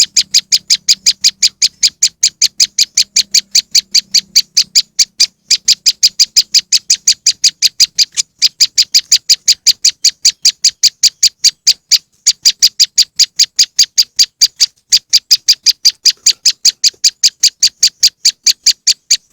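Prenjak lumut (a small prinia) call played as a bird-trapping lure: a rapid, even series of sharp high ticking notes, about five a second. There are two brief breaks, one about eight seconds in and one about twelve seconds in.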